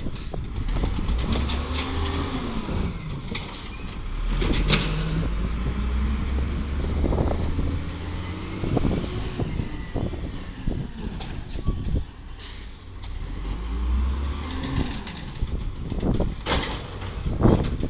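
Garbage truck's Volvo VED7 diesel engine running, revving up and dropping back twice, with several sudden loud noises between.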